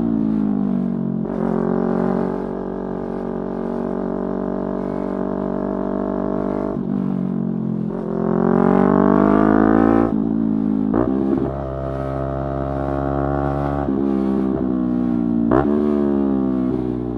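Yamaha R3's parallel-twin engine under way, its pitch falling and holding, then climbing hard through the revs before quick gear changes cut it and it picks up again.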